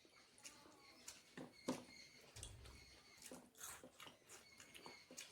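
Faint eating sounds: scattered short clicks and smacks of chewing and mouthfuls of rice, with a brief low bump about two and a half seconds in.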